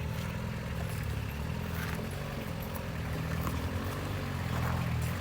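Turbo-diesel engine of a Honda Passport (Isuzu Rodeo) running steadily at low revs.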